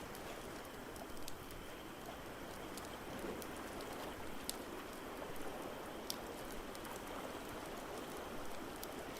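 Wood fire crackling, with scattered sharp pops, over a steady, even wash of water noise from surf or rain.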